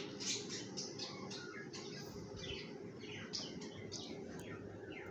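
Small birds chirping, a rapid run of short high chirps at about three a second.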